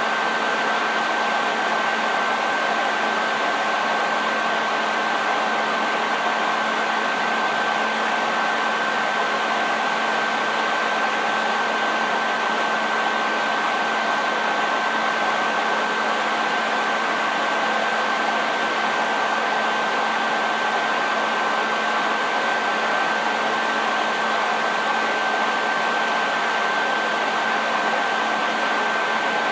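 Electric hair dryer running steadily: an even rush of blown air with a constant high whine from the motor and fan and a low hum beneath.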